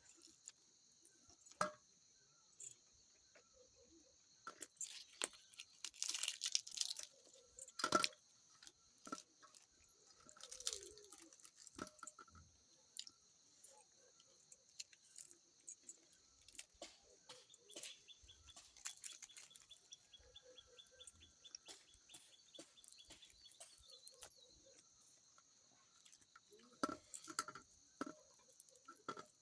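Close-up eating of puri with curry: pieces torn off and chewed, with scattered crunches and small clicks, loudest in a cluster a few seconds in and again near the end. A steady high hiss runs underneath.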